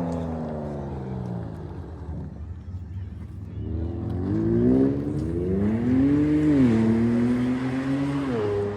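A vehicle engine revving and accelerating. Its pitch winds down over the first two seconds, then climbs again from about four seconds in, dropping sharply twice near the end as it shifts up through the gears.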